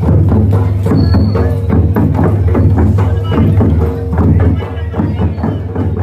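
Loud traditional procession music: fast, rhythmic drum strokes over a steady low drone and held tones.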